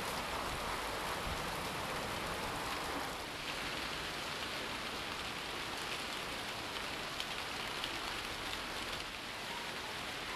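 Steady rain, an even hiss, with a few louder drops ticking now and then in the middle.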